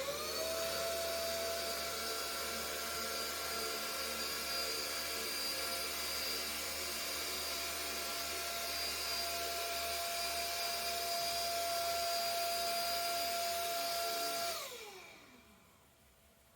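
SMDEE D2 futon vacuum cleaner running: its motor spins up to a steady high whine with a rush of air, holds it, then is switched off about fourteen seconds in and winds down with a falling pitch.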